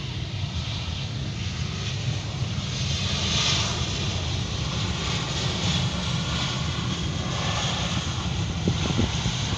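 Airliner on landing approach passing by, its engine roar and rushing hiss swelling to its loudest about three and a half seconds in, then easing slightly.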